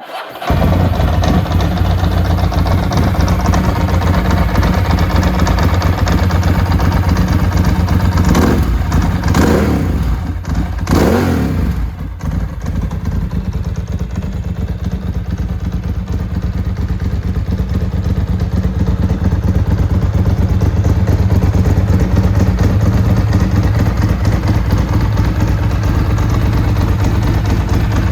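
1999 Ducati 996S's V-twin engine catching on a cold start, then running steadily. About eight seconds in, the throttle is blipped twice, the revs rising and falling each time, before it settles back to idle.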